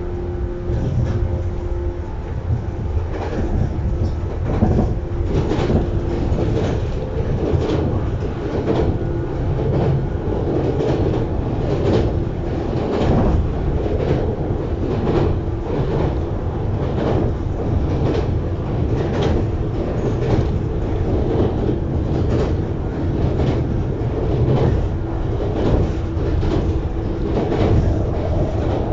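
JR East 115 series electric multiple unit running at speed, heard on board: a steady rumble of wheels on rail with repeated clicks from the rail joints.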